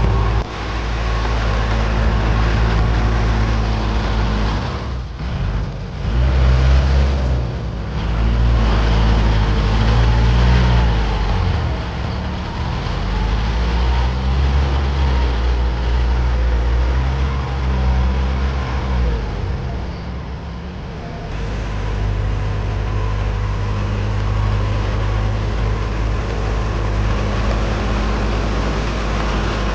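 Tractor engine running steadily. Its note changes a few times in the first two-thirds, then settles into an even drone.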